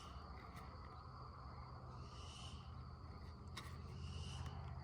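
Quiet room tone: a steady low hum with a couple of faint clicks and three faint, short high-pitched chirps spaced about two seconds apart.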